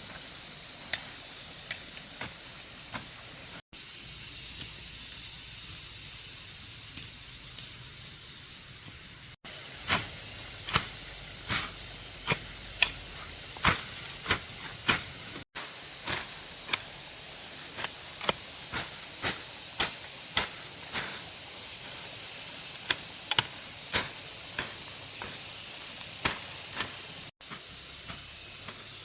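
Sharp knocks at uneven intervals, often about one a second, over a steady high-pitched hiss. The sound drops out briefly several times.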